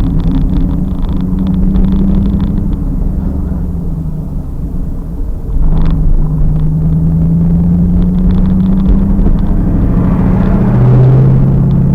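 2000 Pontiac Trans Am Firehawk's LS1 V8 running on track, heard through a rumbling, distorted rear-mounted camera: it eases off for a couple of seconds, comes back on throttle sharply about halfway through and climbs in pitch, then drops to a lower pitch near the end, as at an upshift.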